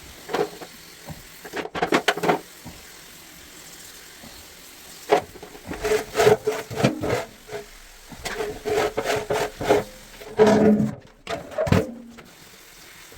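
Sped-up clatter of hand work on a top-loading washing machine: irregular short knocks, scrapes and rubbing in bursts, with quieter gaps between them.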